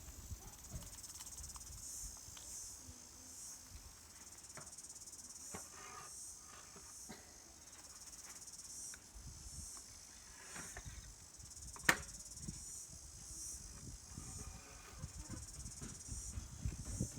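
Insects chirping in a steady high-pitched pulsing drone, with a few faint knocks and one sharp click about twelve seconds in.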